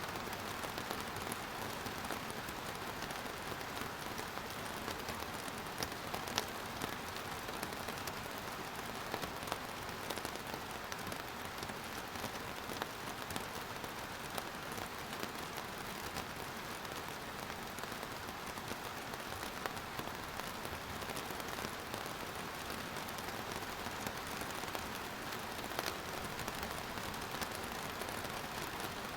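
Steady rain falling on a surface, an even hiss with scattered close drop ticks.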